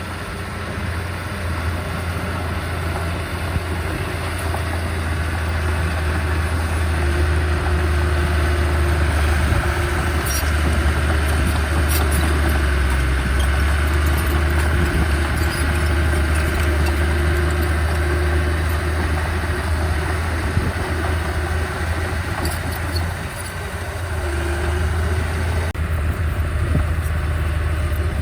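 Heavy-equipment diesel engine running steadily with a low drone, with a few faint clicks or clanks; it eases briefly a few seconds before the end.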